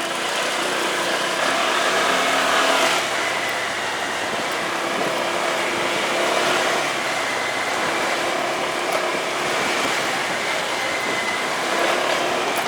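Motorcycle running on the road, a steady engine and road noise with a brief change in engine pitch a few seconds in.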